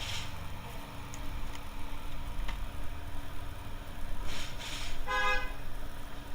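A short horn-like toot of about half a second, roughly five seconds in, over a steady low background rumble with a brief hiss just before it.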